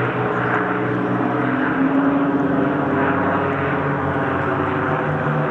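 Piston-engined propeller aircraft flying an aerobatic display. The engine notes rise and fall in pitch as they manoeuvre, with more than one engine heard at once.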